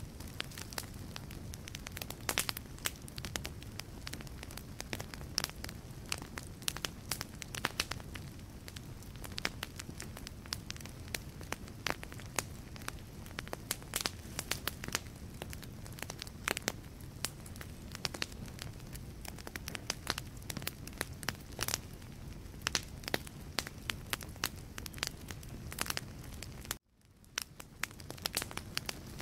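Wood fire crackling in a fireplace: frequent, irregular sharp pops and snaps over a low steady rush of the flames. Near the end the sound cuts out for an instant and fades back in.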